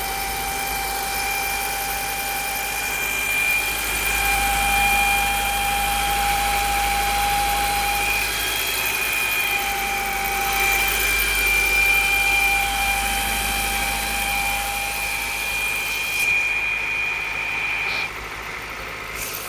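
Mitsubishi Lancer engine running with a steady high-pitched whine over it, the noise this car makes in freezing weather. The whine cuts off suddenly near the end, leaving the engine quieter.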